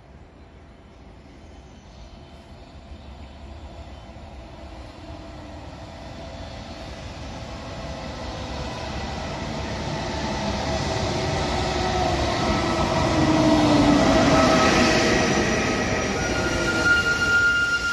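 E464 electric locomotive hauling a train of coaches, approaching and passing close by, growing steadily louder with a motor whine that falls in pitch as it goes by. A high steady squeal starts near the end.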